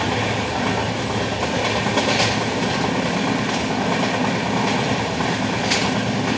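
Wheels of an LHB passenger coach running on the track at speed: a steady, even rumble with a few sharp clicks about two seconds in and again near the end.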